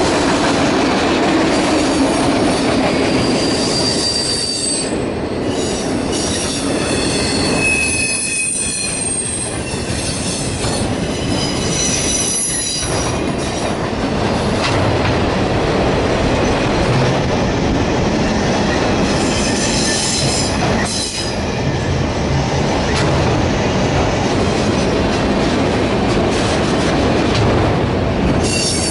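Autorack freight cars rolling past at close range: a steady loud rumble and clatter of steel wheels on rail. High-pitched wheel squeals come and go, mostly in the first half.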